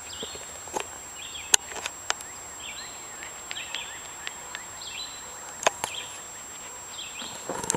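A bird chirping over and over in short calls. A few sharp knocks come through, the loudest about one and a half seconds in.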